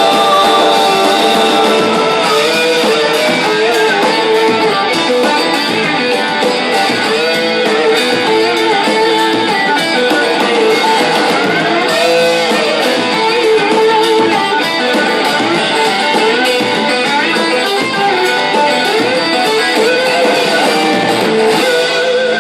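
Live band playing an instrumental passage of a rock song, with amplified guitar to the fore and no singing.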